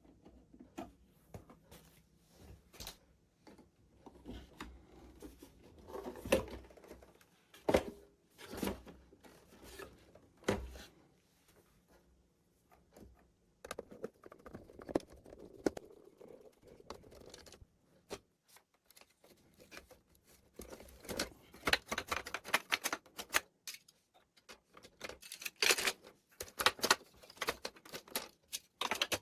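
Irregular clicking, tapping and scraping of hard parts being handled, in clusters with quieter stretches between, busiest near the middle and again near the end.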